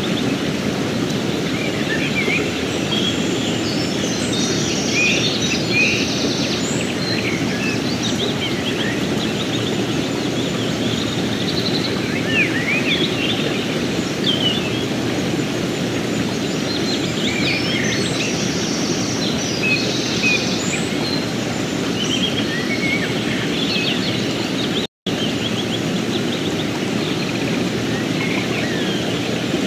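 Steady rush of a flowing river with many birds chirping and calling over it. The sound cuts out for an instant near the end.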